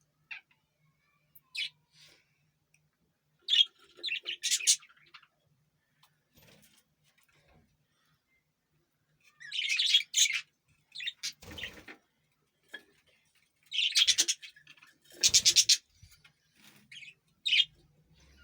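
Pet parrot calling in short, shrill bursts separated by pauses, some of them rasping; the loudest clusters come about four, ten, fourteen and fifteen seconds in.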